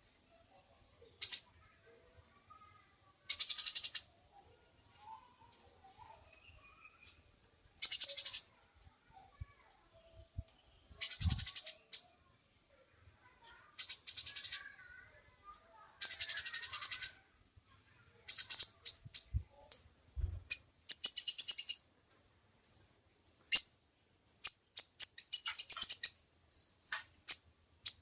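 Sunbird calling: rapid, high, chattering trills lasting half a second to a second, repeated every two or three seconds, giving way to short, sharp, high chips in quicker succession near the end.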